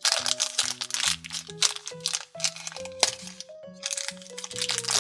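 Plastic wrapping crinkling as small toy surprise packets are opened, in two stretches, over light background music with a simple stepping melody.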